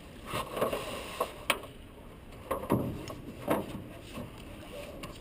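A paddle boat being handled as it sets off: several sharp wooden or hollow knocks, such as paddles striking the hull, over a low background rumble.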